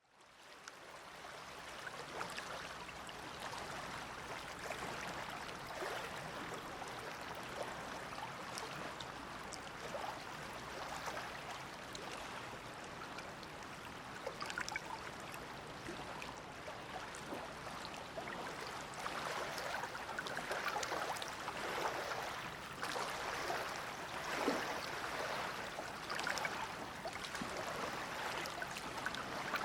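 Small waves of the Dead Sea lapping and splashing at the shore: a steady wash of water with many small splashes. It fades in over the first second and grows a little louder in the second half.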